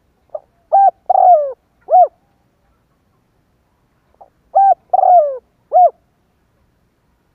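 Spotted dove cooing: two song phrases about four seconds apart, each a short lead note followed by three low coos, the middle coo longer and falling away at its end.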